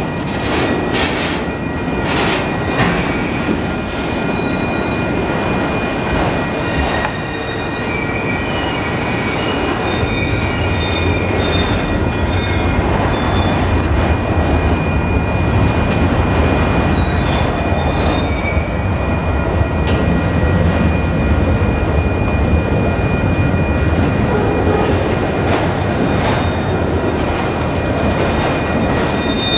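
Autorack freight cars of a Union Pacific train rolling past close by, their steel wheels rumbling and clattering on the rails, with high thin wheel squeal coming and going. A few sharp clicks sound over the joints early on, and the low rumble grows heavier about a third of the way through.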